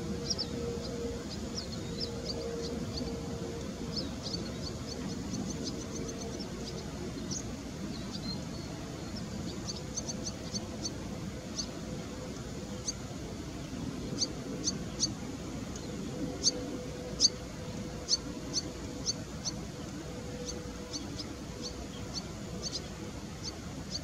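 Birds giving short, sharp, high-pitched calls, singly and in quick runs, thickest in the second half, over a steady low hum.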